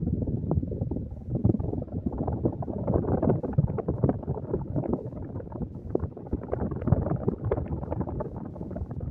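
Air from a Hunter Eclipse ceiling fan's blades buffeting the camera's microphone: loud, irregular wind noise with crackling gusts that starts suddenly just before this point.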